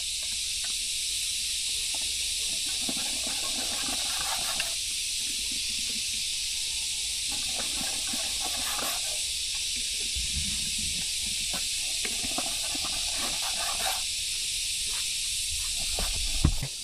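A steady high-pitched hiss throughout, with soft scattered clicks and rustling handling noises over it.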